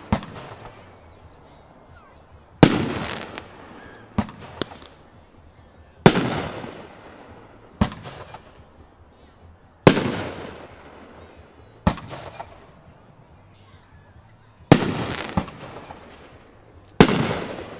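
A Dirty Dozen consumer fireworks cake from Flashing Fireworks firing single shots: five loud sharp bangs, one every three to four seconds, each ringing out in a long echo, with smaller cracks in between.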